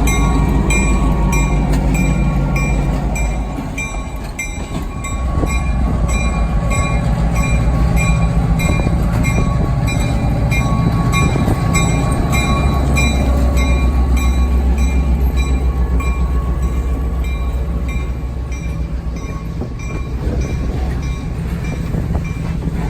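A locomotive and train passing close by, a heavy low rumble with its bell ringing about twice a second throughout.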